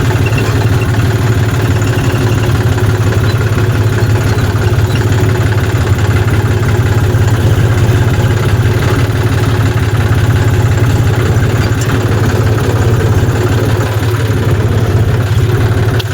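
John Deere tractor's diesel engine running steadily and loud at a constant speed, without revving up or down.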